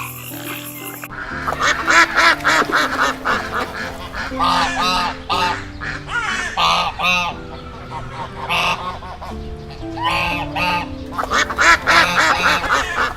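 Waterfowl calling over and over in quick, overlapping honks, over background music with held low notes.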